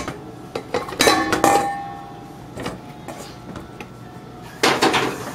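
Kitchen utensils knocking and clinking against a bowl as chopped conch fritter mix is put in, in a series of sharp knocks with a short ring about a second in and a louder pair near the end.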